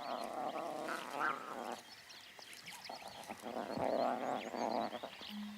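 Wild birds chirping, with two longer bouts of a rasping animal call.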